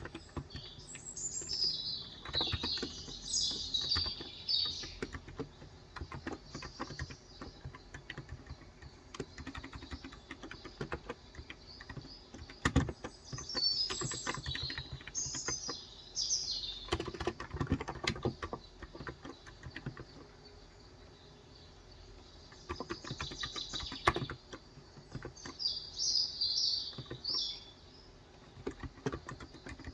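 Typing on a Cox Endeavor capacitive (non-contact) tenkeyless keyboard with 35 g switches: an irregular patter of keystrokes that thins out for a few seconds past the middle. A small bird chirps in three short spells of high twittering, near the start, around the middle and about three quarters in.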